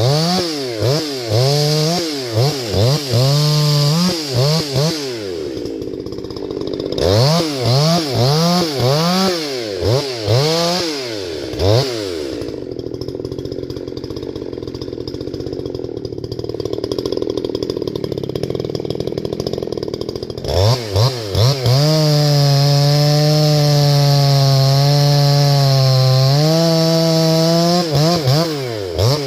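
Two-stroke chainsaw revved in quick repeated throttle blips, easing back to a lower, quieter run for several seconds in the middle, then held steady at high revs for about five seconds before a few more blips near the end.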